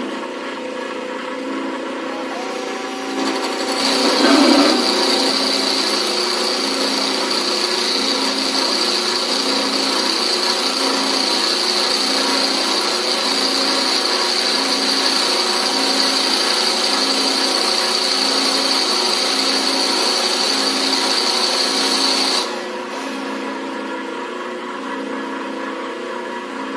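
An electric drill spins a bolt against a running bench grinder, grinding the bolt down to a smaller round diameter. The motors run steadily throughout. From about four seconds in until about four seconds before the end, a loud grinding hiss with a high whine sits over them, then stops while the motors keep running.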